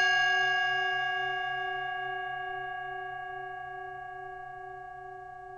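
A singing bowl, struck just before, ringing on and slowly fading, with a slight waver in its lower tones.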